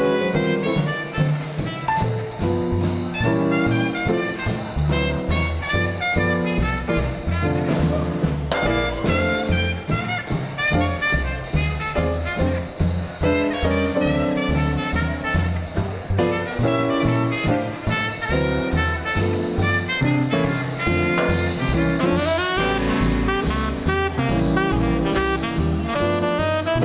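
Small-group swing band playing an instrumental chorus, with saxophone and brass over piano, a walking bass line and drums.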